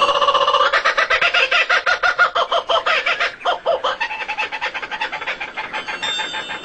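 Bird calls: loud, quickly repeated pitched notes that weaken over the last couple of seconds.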